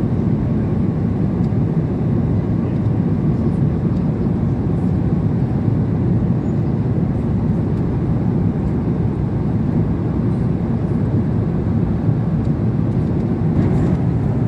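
Steady low roar inside a Boeing 777-300 airliner's cabin in flight: engine and airflow noise.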